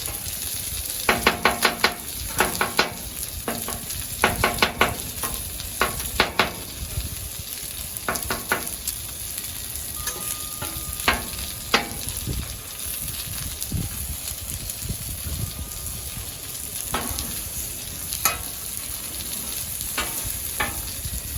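Food sizzling on a Blackstone flat-top griddle while metal spatulas clank and scrape against the steel cooking surface. The ringing clanks come in quick runs over the first half, then more sparsely.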